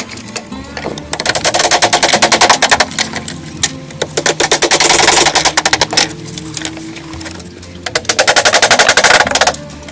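Three bursts of very rapid, evenly spaced tapping, each lasting about one and a half to two seconds, over background music.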